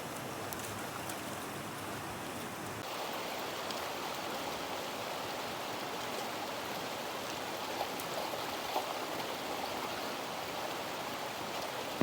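Steady rain falling, an even hiss that grows brighter about three seconds in, with a few light taps near the end.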